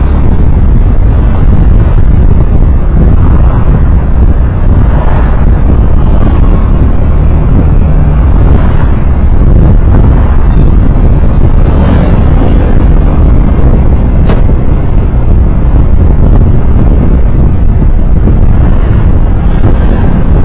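Loud, steady low rumble of a road vehicle on the move, engine and road noise together, with a faint click about fourteen seconds in.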